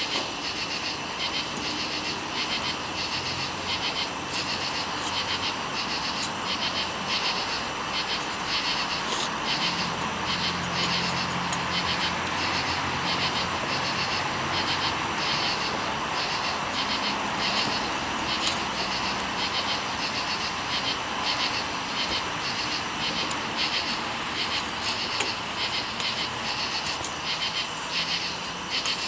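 Steady outdoor chorus of fast, rhythmic chirping from insects or frogs, with a few faint clicks of handling now and then.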